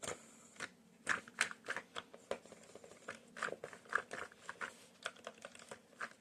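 Irregular light plastic clicks and taps from a Lego vacuum engine's clutch being demonstrated, several a second.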